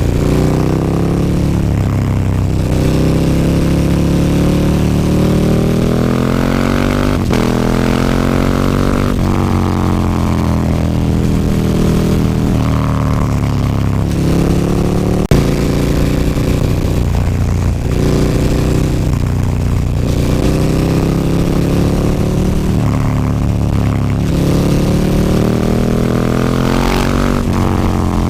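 KTM 1290 Super Duke R's V-twin engine through an Akrapovic slip-on exhaust, heard from the bike on the move. The revs climb and fall several times as it pulls through the gears and slows, with one sharp crack about halfway through.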